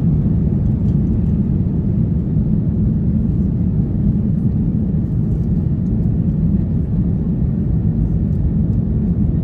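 Steady low rumble of an Airbus A350-900 cabin heard from inside, the engines and airflow making an even roar with no breaks.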